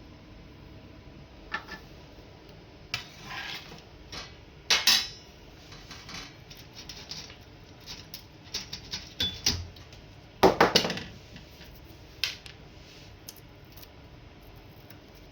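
Irregular metallic clinks and knocks as parts of an electric kettle and small tools are handled during a repair. There are louder clatters about five seconds in and again just after ten seconds.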